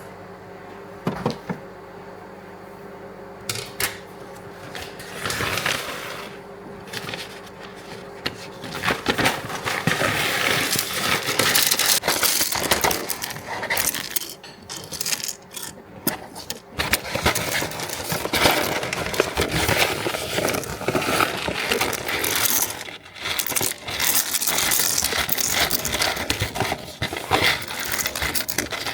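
Coffee beans clattering and crackling against a hard container. A few separate clicks come first, then from about nine seconds in a dense, louder run of rattling and crunching.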